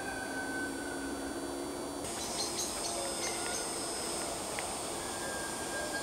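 Outdoor woodland ambience with a few faint, short bird chirps, over a steady background hiss with some soft held low tones.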